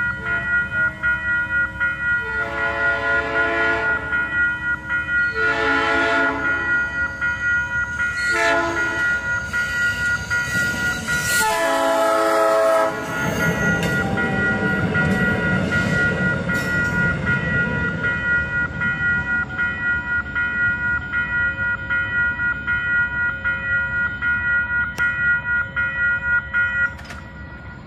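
Railroad crossing bell ringing steadily while a passenger train's horn sounds the grade-crossing signal, two long blasts, a short one and a final long one, and the train then rushes past over the crossing. The crossing bell stops near the end.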